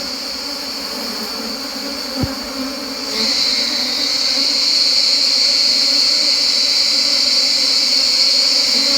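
A swarm of wild forest honeybees buzzing steadily around an opened tree-hollow nest as the colony is gathered by hand. A high, steady insect drone rises sharply in level about three seconds in and stays loud.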